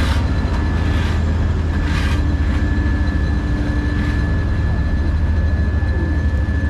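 Heavy diesel engine running steadily close by: a deep, even rumble with a thin steady whine above it. A few brief hissing bursts come in the first couple of seconds.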